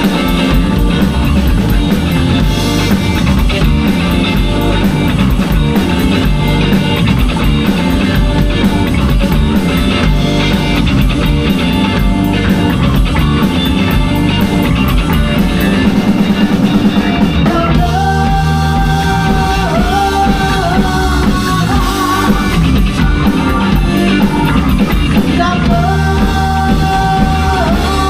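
Live rock band playing loudly with drum kit, electric guitar and vocals; about two thirds of the way through a sustained melody line comes in over the band.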